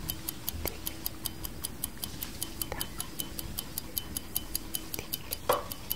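Clock tick-tock sound effect: fast, even ticking at about five ticks a second. A few louder single knocks or clinks fall among the ticks, the loudest near the end.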